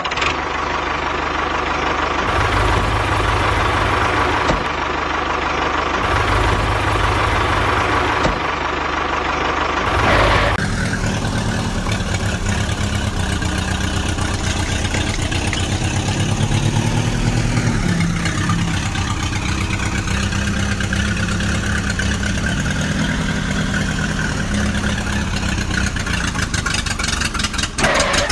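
A motor running steadily, its sound changing about ten seconds in.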